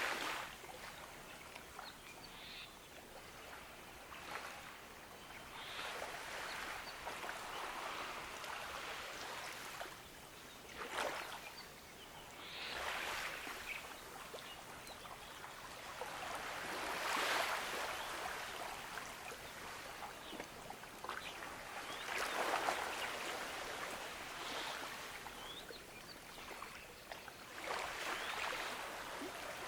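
Gentle ocean waves washing onto a beach, each wash rising and falling away every few seconds, the loudest about 17 and 22 seconds in.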